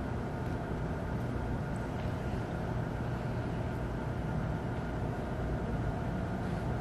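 Steady room tone: an even low hum and hiss with no distinct events.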